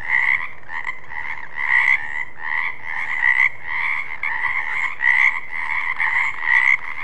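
Frog croaking over and over in a steady rhythm, about one and a half croaks a second.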